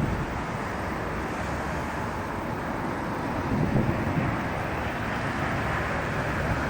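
Airbus A320-214's CFM56 jet engines heard on landing approach: a steady rushing rumble that swells slightly about three and a half seconds in.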